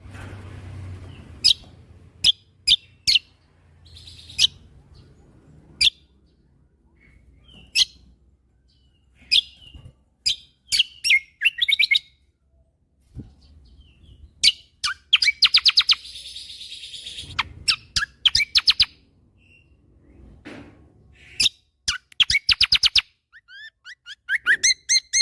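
Kecial kombo (cucak kombo) songbird from Lombok singing in full, the 'gacor' song bird keepers prize. Sharp single chirps alternate with fast rattling trills of evenly repeated high notes ('tembakan'), the longest about halfway through and again near the end, with a short hissing phrase in between.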